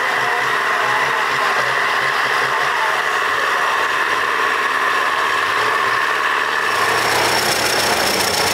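A tractor engine running loudly and steadily, its sound changing abruptly about seven seconds in, when a high steady whine joins it.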